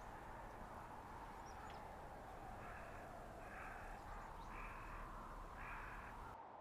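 Blizzard wind blowing steadily through a winter forest, with a bird calling four times, about once a second, in the second half.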